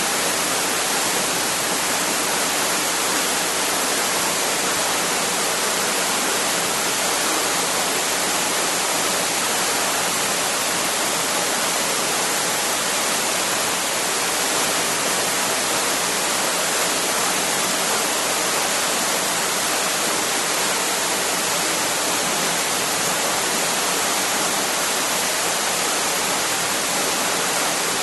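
A waterfall rushing: steady falling water heard as an even, unbroken hiss, strongest in the high range.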